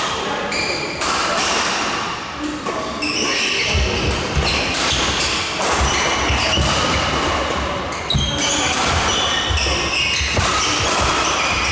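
Doubles badminton rally in a large hall: sharp racket hits on the shuttlecock, short high shoe squeaks on the court floor, and heavy footfalls from about four seconds in.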